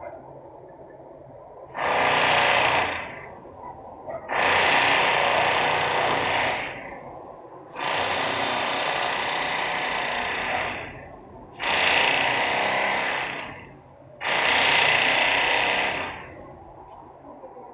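Loud industrial machine noise in five separate bursts, each two to three seconds long, starting sharply and dying away after a second or so, like a heavy power tool being run in short spells.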